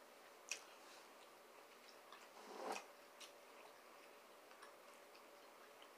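Quiet eating: faint chewing with a few soft mouth clicks, one about half a second in and two more near the middle.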